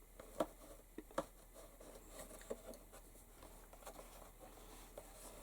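Faint handling noise: a few light clicks and taps, the clearest two about half a second apart early on, as the leather pouch and a metal spring belt clip are moved around on the bench.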